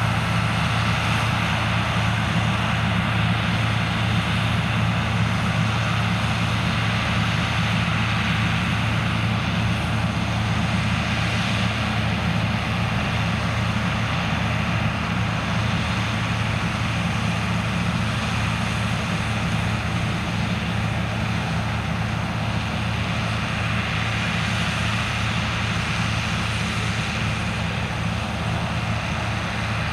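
Heavy farm machinery at corn harvest, a combine harvester or the tractor working with it, running steadily under load. There is a constant low engine hum under a steady mechanical whir.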